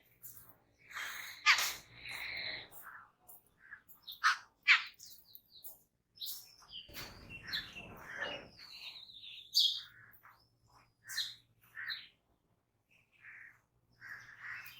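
Jungle babblers calling: a bout of harsh, squeaky chatter and short chirps in irregular bursts, with a drawn-out whistled note in the middle.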